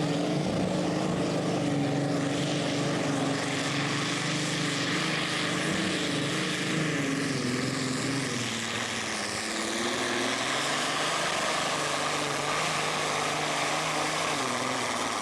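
Pulling tractor's engine running at full throttle during a pull, loud and steady. About nine seconds in its pitch drops, then it holds at a lower note.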